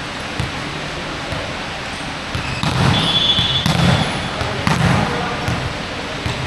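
Basketball bouncing on a court floor during a game, a scatter of short thuds over a steady gym background, busier in the middle, with a brief high squeak about three seconds in.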